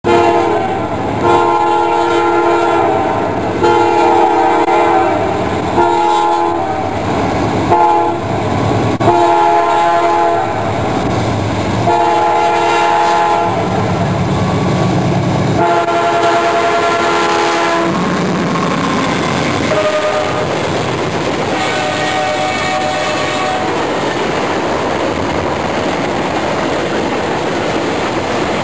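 Diesel freight locomotive sounding its multi-note air horn for a grade crossing, a series of long and short blasts over the first two-thirds. The locomotive's engine rumbles past about halfway through, and the freight cars then roll by clattering over the rail joints.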